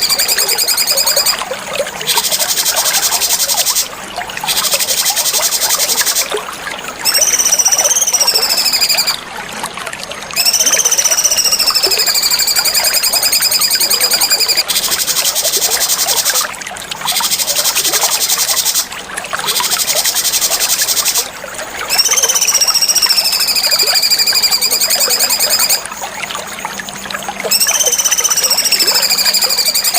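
Cucak cungkok singing loudly in repeated phrases, with short pauses between them. Each phrase has high, slurred whistles that slide down or rise and fall, alternating with rapid buzzy rattling trills.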